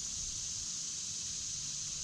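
Steady outdoor ambience on a river: an even, high-pitched hiss with a faint low rumble underneath.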